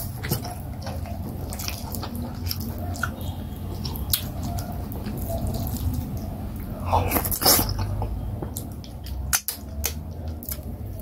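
Close-miked eating sounds of soft fufu with leafy vegetable soup eaten by hand: wet chewing, lip smacks and sticky clicks, with a louder cluster of smacks about seven seconds in.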